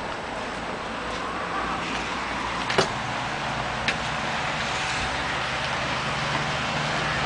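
Motor scooter engine running steadily and getting slightly louder, with a few sharp clicks, the loudest just under three seconds in.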